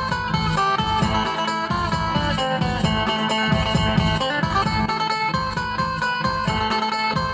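Phin, the Thai Isan plucked lute, playing a busy melody over a steady bass beat.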